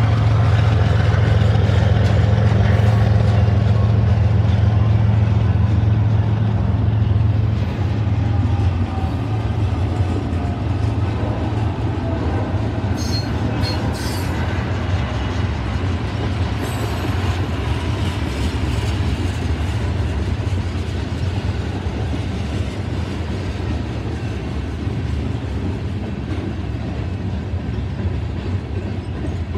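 A freight train passing: the diesel locomotive's engine drones low and steady, fading about seven seconds in as it moves off. Tank cars and covered hoppers follow with the steady rumble of steel wheels rolling on the rails.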